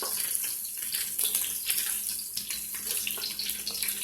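Minced garlic frying in hot oil in a wok: a steady sizzling hiss with constant crackling pops, the garlic nearly browned.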